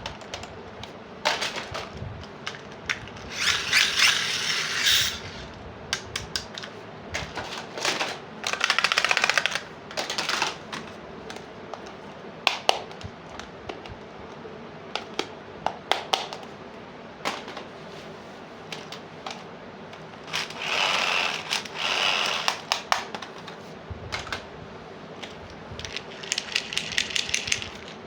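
Small plastic toy pieces clicking and tapping as they are handled and fitted together, with a few longer bursts of scratchy rustling.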